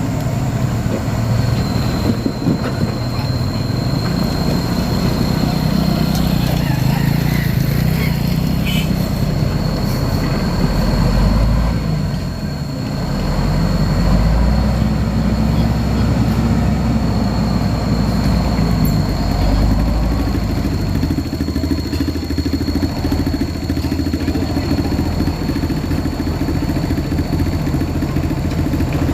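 Heavy-equipment diesel engines running and working, a steady low rumble that dips briefly about halfway through, with a thin steady high whine above it.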